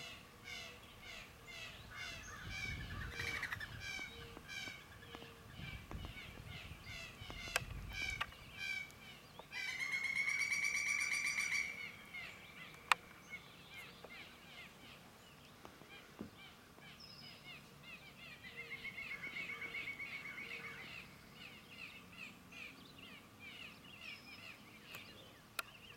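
Several songbirds singing and chirping, with quick repeated notes for the first several seconds. A loud buzzy trill about ten seconds in lasts around two seconds, and a softer one follows near twenty seconds.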